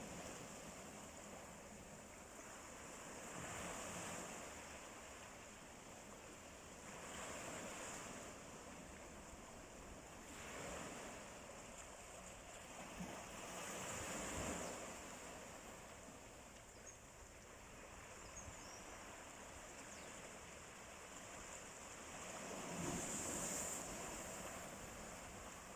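Sea waves washing in and drawing back, a hiss of surf that swells and ebbs every few seconds, strongest about ten and fourteen seconds in and near the end.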